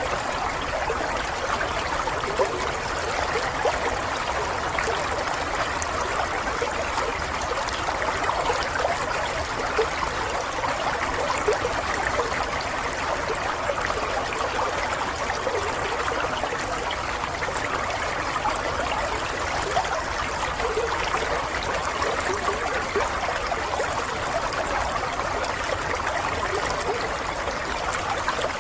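Water running steadily, an even, continuous flow.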